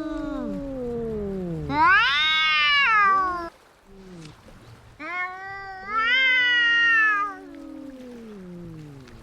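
Two cats yowling at each other in a fight standoff: long, wavering yowls that rise and fall, one voice higher and one lower, overlapping. The first yowl runs on past the start, another comes about two seconds in, and a third about five seconds in, with a short lull between.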